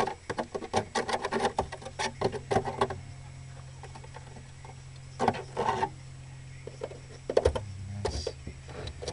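A pointed poker jabbing and scraping at the rust-rotted steel floor pan of a 1987 Camaro IROC-Z, making a quick run of crackling taps and scrapes for the first three seconds and two shorter bursts later, over a steady low hum.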